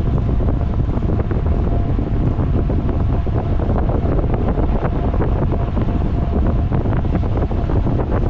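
Wind buffeting a microphone on a moving bicycle: a steady, loud low rumble with scattered faint ticks.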